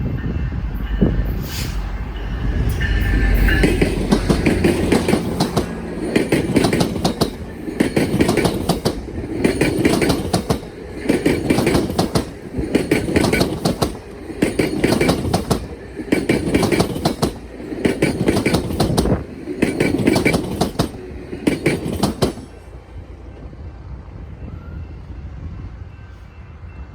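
Train cars' wheels clattering over a railway diamond crossing: a burst of sharp clacks about every second and a half as each car's wheels pass over, after a low rumble at the start, stopping suddenly about 22 seconds in.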